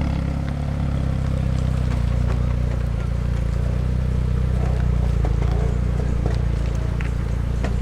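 A car engine running steadily at low revs, a constant low rumble, with faint scattered clicks on top.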